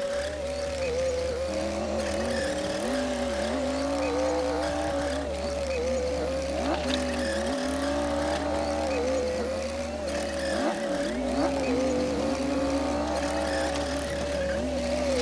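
Komatsu D60P bulldozer running while pushing soil: a steady engine whine that dips briefly in pitch and recovers every second or so.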